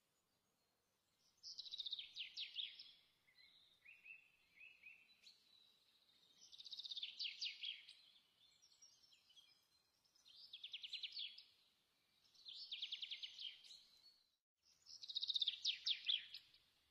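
A songbird singing: five similar phrases of quick, high trilled notes, each about a second long, repeated every few seconds, with a few softer chirps between them.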